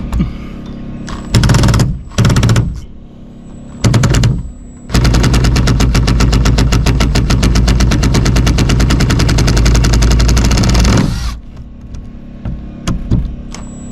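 Cordless impact driver hammering on a nut: three short bursts, then one long burst of about six seconds that stops near the end.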